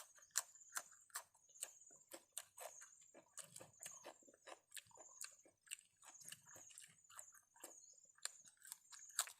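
Person chewing papaya salad with fresh raw vegetables: a steady run of small crisp crunches, about two or three a second.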